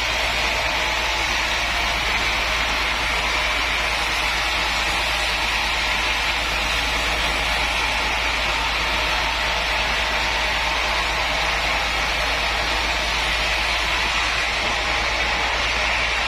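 Steady machine noise, a constant low hum under an even hiss, running without any change in load.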